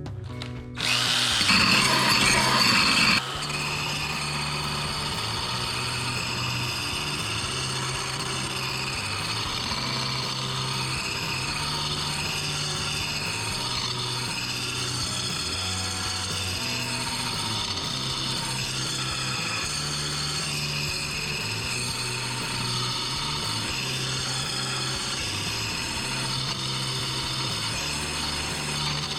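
Electric drill spinning a sanding wheel against the steel edge of a lawn mower blade to sharpen it. It is louder for a couple of seconds about a second in, then settles into a steady grind that rises and falls every couple of seconds.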